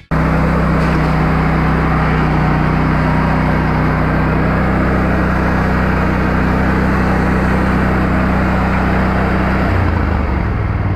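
An engine running steadily at a constant speed; its pitch drops about ten seconds in.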